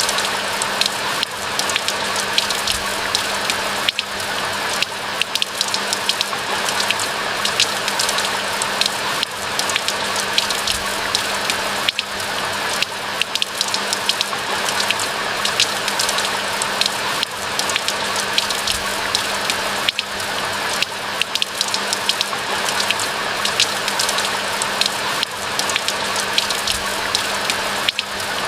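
Steady rain falling in a pine forest: a constant hiss dense with the small taps of individual drops, with no lull or change.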